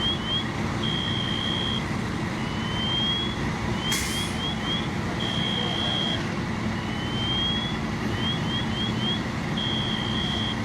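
Electronic alarm cycling through a repeating pattern of quick rising chirps, a steady held tone and a slow rising whoop, about every four and a half seconds, over a steady low rumble. There is a short noisy burst about four seconds in.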